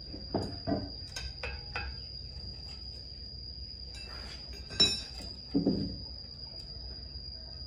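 Hand tools clinking and knocking against engine metal as an injector part is worked loose from a Caterpillar 3406 cylinder head. There is a cluster of short metallic clinks in the first two seconds, a sharp loud click about five seconds in, then a duller knock. A steady high-pitched insect trill carries on underneath.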